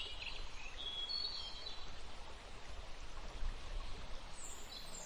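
Steady outdoor ambient hiss with a few faint, high bird chirps in the first second or so and again near the end.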